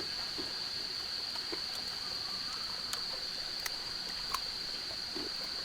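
Steady high-pitched insect drone of the rainforest, holding one unbroken pitch, with a few sharp clicks and crackles scattered through it.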